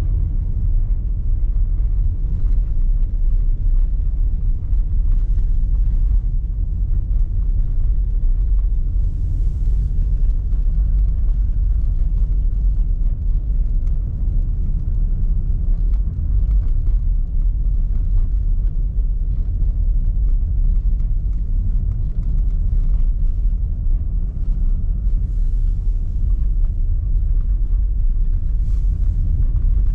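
A car driving, heard as a steady low rumble of road and engine noise, with a few faint brief hisses.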